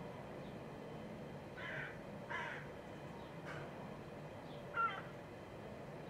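Four short harsh bird calls, spaced about a second apart, the last and loudest one near the end, over a steady low background hum.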